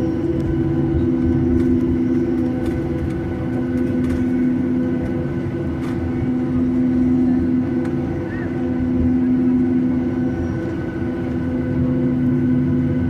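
Boeing 737-800's CFM56 engines running at a steady setting: a low rumble with a steady hum of several held tones that neither rise nor fall.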